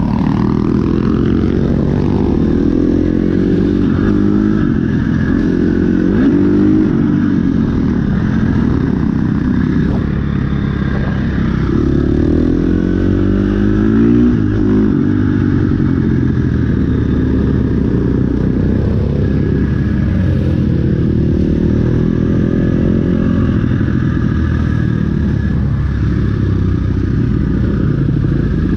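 Dirt bike engine running on the move, its pitch climbing and dropping back several times as it accelerates and eases off.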